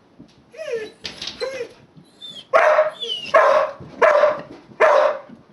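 Dogs whining and yipping, then four loud barks about three-quarters of a second apart. They are excited by a bird loose in the barn.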